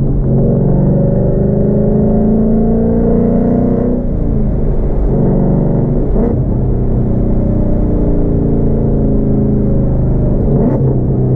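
Car engine running under load while driving, its pitch dropping and climbing again three times, as at gear shifts.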